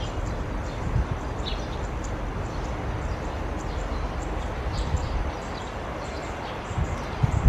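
Wind rumbling on the microphone with birds and insects chirping; the gusts thump harder near the end.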